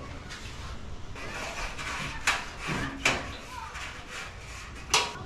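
Sharp knocks and clatter of a GE dryer's metal panels and parts being handled during disassembly, the three loudest about two, three and five seconds in.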